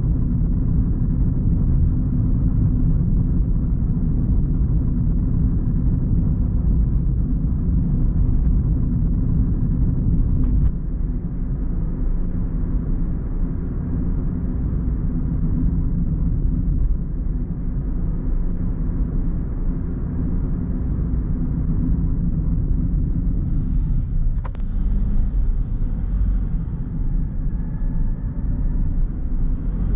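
Car driving on a road: a steady low rumble of tyres and engine. It drops slightly in loudness about a third of the way through, and a brief hiss with a sharp click comes about three-quarters of the way in.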